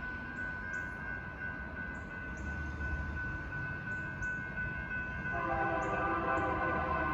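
Locomotive air horn sounding a multi-note chord, starting about five seconds in and held, over a steady high tone heard from the start.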